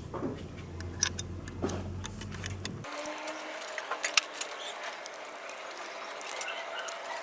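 Light metal clinks and clicks of steel vise parts being handled, over a faint background hum that cuts out about three seconds in.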